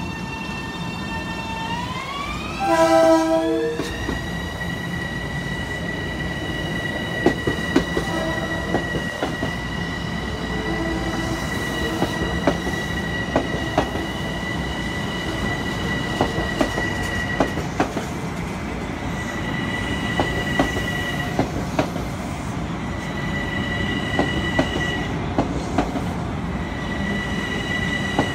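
LIRR M7 electric multiple-unit train pulling out, its propulsion whine rising in pitch over the first few seconds and then holding steady. A short train horn blast sounds about three seconds in. After that come the repeated clicks of the wheels over rail joints and brief wheel squeals.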